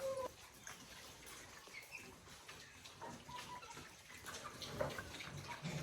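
Faint, scattered chicken clucks and short peeps among small clicks and rustling.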